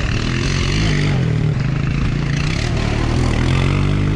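Dirt bike engine running under throttle while being ridden, its pitch holding fairly steady with small rises and dips.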